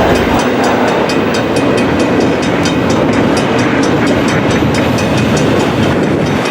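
Cars of a CN intermodal freight train rolling past at a level crossing: a loud, steady rumble of steel wheels on rail, with a rapid, even high ticking laid over it.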